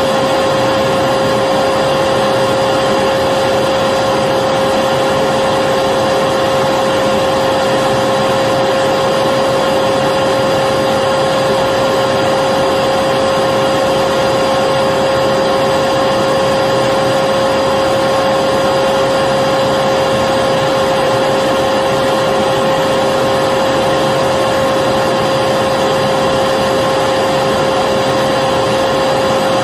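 Electric vacuum cleaner motor running steadily and continuously: a loud, unchanging whooshing hiss with a steady hum-whine over it.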